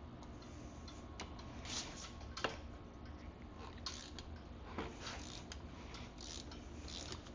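Light clicks, taps and short scrapes of hand tools and wheel parts being handled while a dirt bike's front wheel is taken off, with one sharper metal click about two and a half seconds in.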